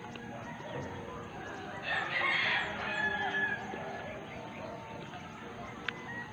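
A bird calling once, about two seconds in, for about a second and a half, over low background noise, with a short click near the end.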